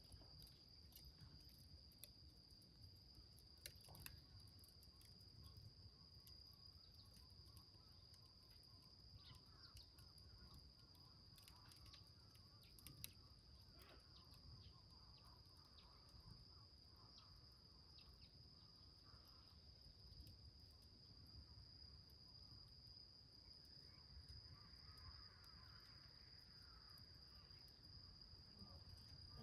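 Near silence: a faint, steady, high insect trill, with scattered faint crackles from a small wood fire burning in a metal can.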